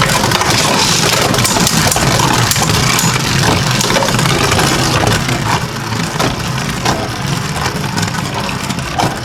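Two Beyblade Burst spinning tops, Kerbeus K4 and Blizzard-X Gaianon, whirring and scraping around a plastic stadium, with sharp clacks as they hit each other. The clacks are most frequent in the first half, and the whir gets quieter after about five seconds as the contact dies away and Kerbeus tornado-stalls around the rim.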